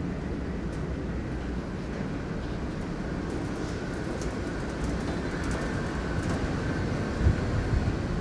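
Steady low rumble of a large car ferry under way, with two louder low thumps near the end.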